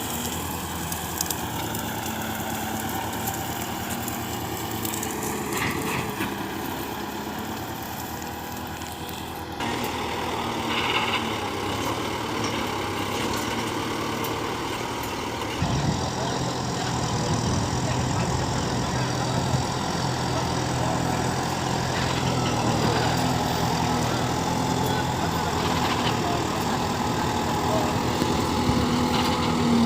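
Tractor diesel engine running steadily, heard across several spliced clips, with the sound changing abruptly about a third and about halfway through.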